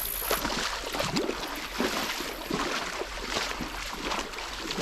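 Shallow river water splashing and rippling in an irregular patter of small splashes.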